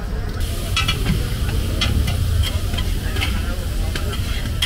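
Food sizzling as it fries in a pan, the hiss growing about half a second in, with repeated clinks and scrapes of a metal utensil stirring it. A low rumble runs underneath.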